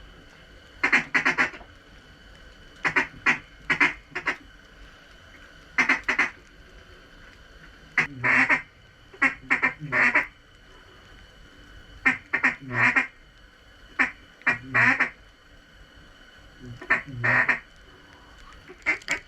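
Mallard-style duck quacks in short runs of several quick notes, repeated every second or two and loud, as if close by.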